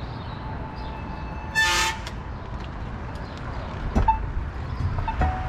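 A short, loud horn-like toot, lasting well under a second, about one and a half seconds in, over steady wind and road rumble from riding a bicycle.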